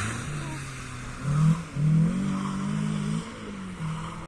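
Rally car engine revving hard under acceleration, rising in pitch in short pulls about a second and a half in and again just before two seconds, then running on at a steadier pitch.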